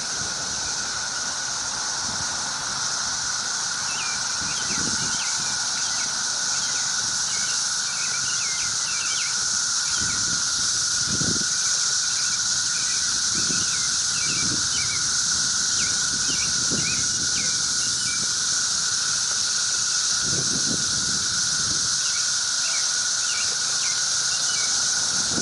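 Cicadas in full chorus: a loud, steady drone on two pitches, one middling and one very high, that never lets up. Short bird chirps and a few soft low thuds sound over it.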